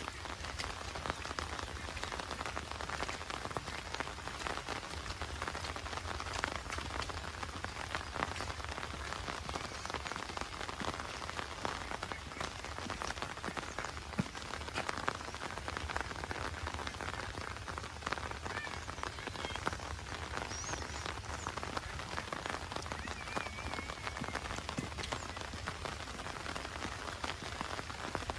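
Heavy monsoon rain falling steadily: a dense, even hiss studded with many close individual drop hits. A few faint short chirps sound over it in the second half.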